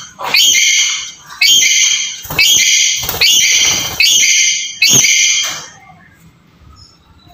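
Black-capped lory giving a run of six loud, harsh calls, about one a second, which stop about two-thirds of the way through.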